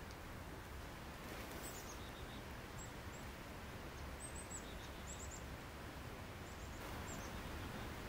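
Faint steady background hiss of the outdoors, with a small bird's high, thin chirps coming in short runs of two or three, several times.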